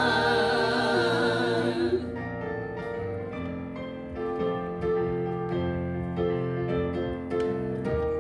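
Singers hold the last note of a gospel chorus over piano, cutting off about two seconds in. A piano then plays on alone in a gentle interlude of single struck notes and chords.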